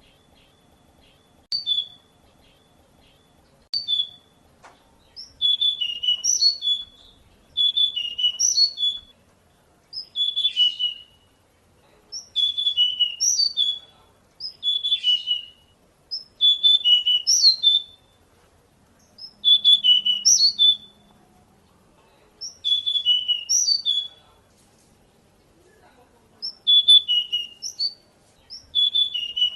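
Pied bush chat (decu) singing: at first single short chirps about every two seconds, then from about five seconds in, a run of high-pitched warbled phrases about a second and a half long, repeated with short pauses between them.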